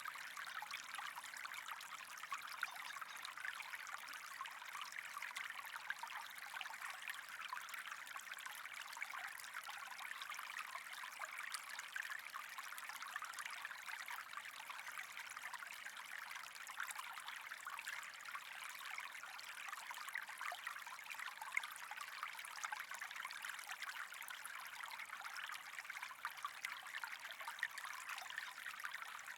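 Steady trickling, running water with a fine crackle.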